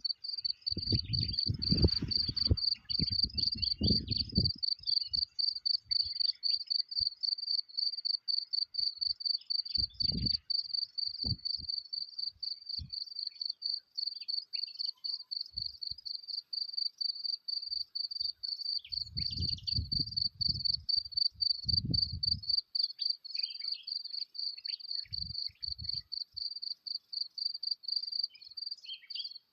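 Insects trilling without pause, a fast, even, high-pitched pulsing. Low rumbles break in during the first few seconds, again briefly around ten seconds, and for a few seconds around twenty seconds in.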